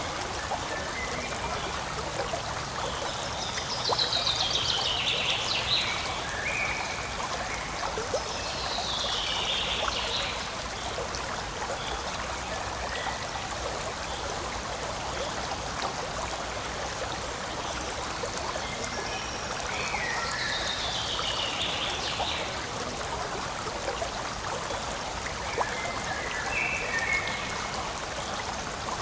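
Forest stream flowing and trickling steadily. Short high falling calls come in four times over the water.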